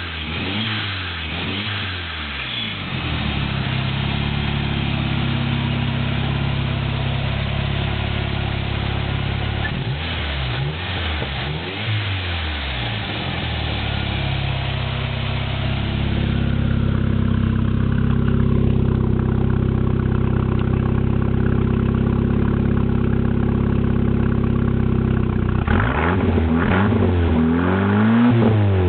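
Turbocharged 2.3-litre four-cylinder engine of a 1993 Ford Ranger, breathing through a 3-inch exhaust with a Dynomax Bullet muffler. It is blipped in quick up-and-down revs at the start, again about ten seconds in and near the end, and idles steadily in between.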